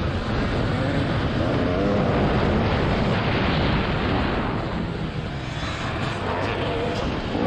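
TM 300 two-stroke motocross engine revving, its pitch rising and falling as the throttle opens and closes, under heavy wind noise on the microphone.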